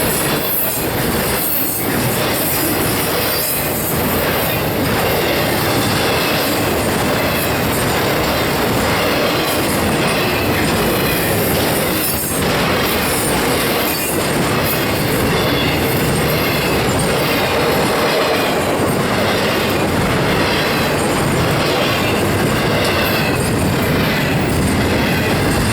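A train running on the rails: a steady, loud rumble of wheels on track, with squealing wheels and some clickety-clack.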